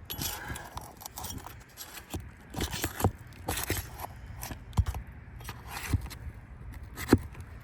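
Scraping and scattered sharp knocks from hand work on roof shingles as they are unsealed and nails are worked loose.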